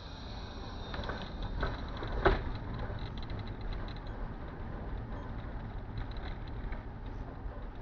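Steady low rumble of a car's cabin noise, with a few short knocks about one to two seconds in, the loudest just after two seconds.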